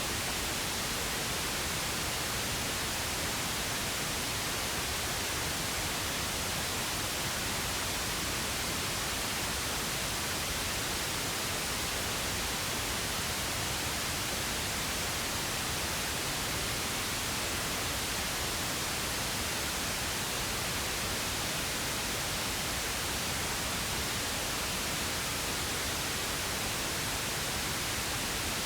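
Steady pink noise: an even, unbroken hiss spread across the whole range from low to high.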